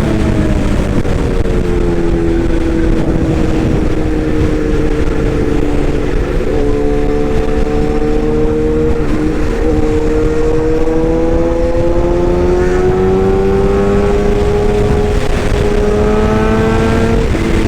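Excavator running steadily with a continuous engine hum. Its pitch sinks slightly over the first couple of seconds, then climbs gradually over the last several seconds and drops again just before the end, as the load on the machine changes.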